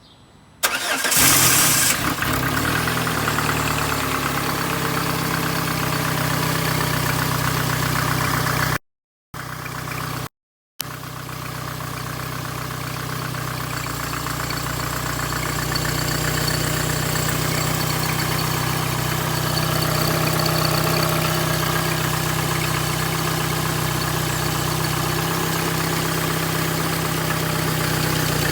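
Peugeot 307 SW engine started: a short loud burst of cranking and catching about a second in, then a steady idle. The sound cuts out completely twice, briefly, near the middle.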